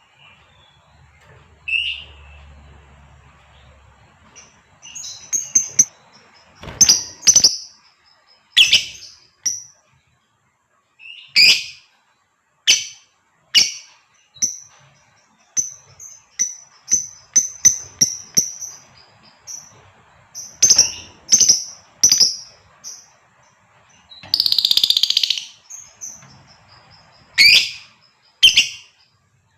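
Female lovebird calling: a loose string of short, sharp, high-pitched chirps and shrieks, with one longer harsh chattering call of about two seconds late on.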